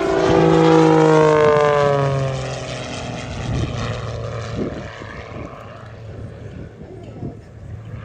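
Extra 330 aerobatic plane flying past, its engine and propeller note falling in pitch as it goes by. It is loudest about a second in, then fades over the next few seconds.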